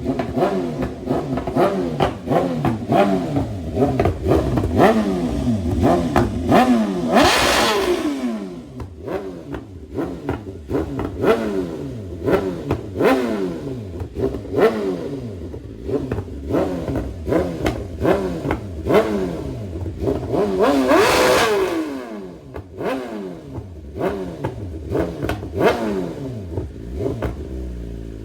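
Car engine revved hard over and over, pitch climbing and dropping about once a second, with many sharp exhaust pops between revs. Two louder rushing bursts come about seven and twenty-one seconds in.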